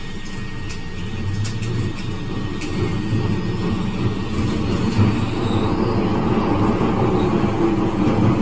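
Glasgow Subway train running through the tunnel, heard from inside the car: a steady rumble of wheels and running gear that grows louder about a second in and then holds.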